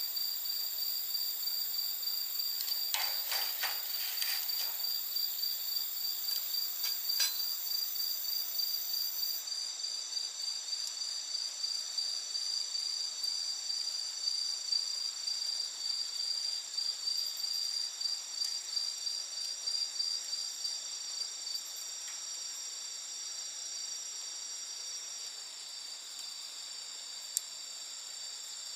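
Several insects, crickets among them, trilling steadily at different high pitches, one of them in a fast pulsing chirp. A wood campfire crackles in a short cluster about three seconds in, again near seven seconds, and with a few faint pops later.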